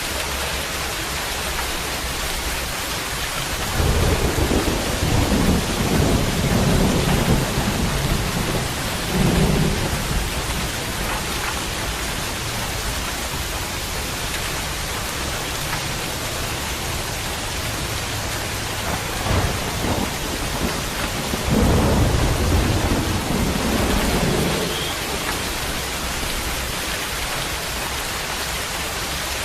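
Steady rain falling, with two long low rolls of thunder: one starting about four seconds in and lasting about six seconds, the second starting near the middle and dying away a few seconds later.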